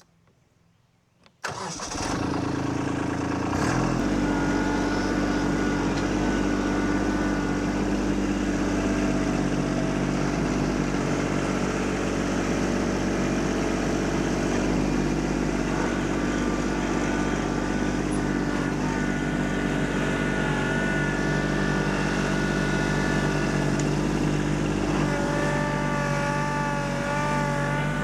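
Kubota LX2610 compact tractor's three-cylinder diesel engine, coming in suddenly about a second and a half in and then running steadily while the tractor works the stone pile. A wavering high whine rides over the engine at times, strongest near the end.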